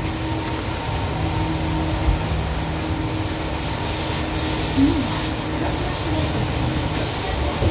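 Running sound inside a Seibu 101-series electric train (set 263F) under way: a steady rumble of wheels and motors, with a thin high wheel squeal held over it, and a short bump about five seconds in.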